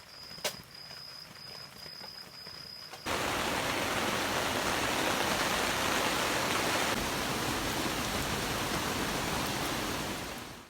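Heavy rain falling in a downpour. Softer rain with a faint steady high whine and one sharp click at first, then about three seconds in it jumps suddenly to a much louder, even rush of rain that fades out near the end.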